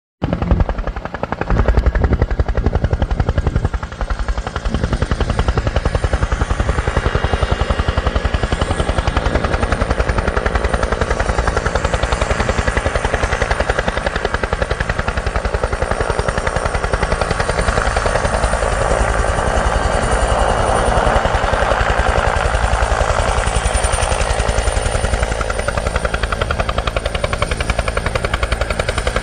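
Bell 212 helicopter running, its two-bladed main rotor beating in a fast, steady pulse over the hiss of its twin turbines. The noise grows louder and brighter about two-thirds of the way through.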